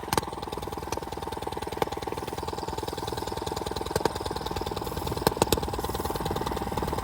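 Small minibike engine idling steadily, with a few sharp clicks over the top.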